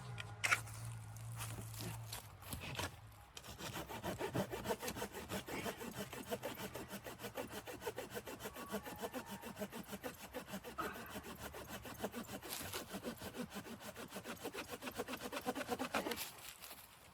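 Hand saw cutting through wood in quick, even back-and-forth strokes, about three a second, stopping near the end. Before the sawing starts there is a low steady hum and a single sharp click.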